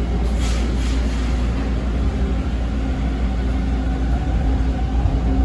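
Interior noise of a TTC T1 subway car on the move: a steady low rumble under a constant hum, with a short hiss about half a second in.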